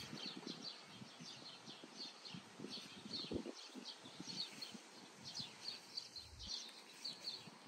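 Songbirds chirping outdoors, with many short, high, falling chirps repeating throughout. Under them are faint soft low thumps.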